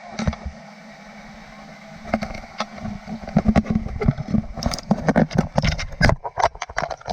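Water rushing steadily, with irregular knocks and splashes that grow denser from about two seconds in.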